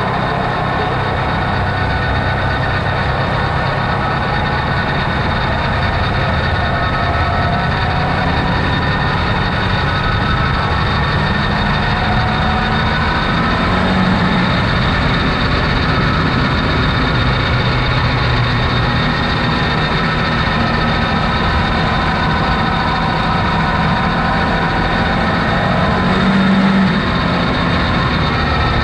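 Off-road vehicle's engine running steadily while driving, with a slight rise in pitch about halfway through and again near the end.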